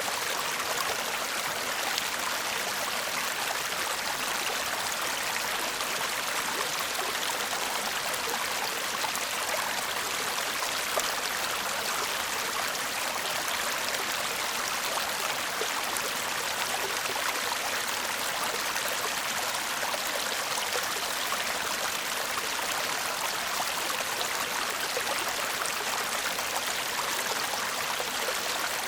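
A small brook murmuring steadily: an even, unbroken rush of flowing water, light and hissy rather than deep, without much low rumble.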